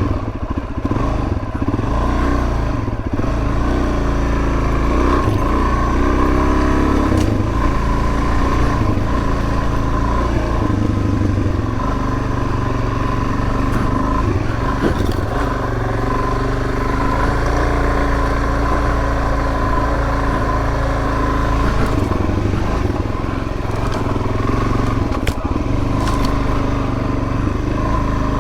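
Suzuki DR-Z400S single-cylinder four-stroke engine running while riding a dirt trail, its pitch rising and falling as the throttle changes, with low wind rumble on the microphone.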